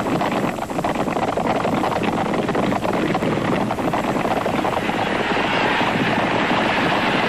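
Peugeot 404 cars' engines running hard as they race across a dirt track, a rough, rushing noise heavily overlaid with tape hiss. About five seconds in it smooths into a steadier hiss.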